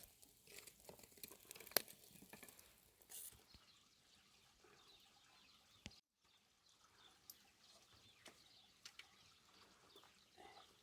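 Near silence: faint outdoor background with a few scattered light clicks and ticks, and a moment of dead silence about six seconds in.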